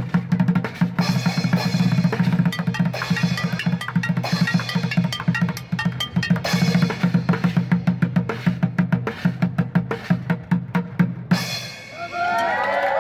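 Fast, dense street drumming with a heavy low beat and rapid rolls. It stops abruptly about a second and a half before the end, and several voices whoop in rising and falling cries.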